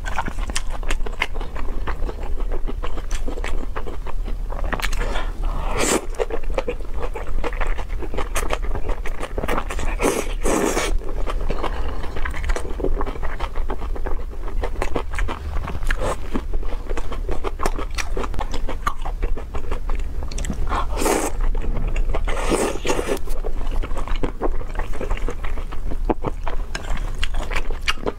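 Close-miked eating sounds: wet chewing of noodles, with chopsticks scraping and clicking through the noodles in the tray. Several louder, longer mouth noises come a few seconds apart.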